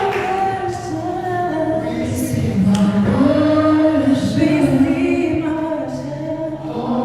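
A group of voices, mostly women's, singing a slow worship song together, with long held notes.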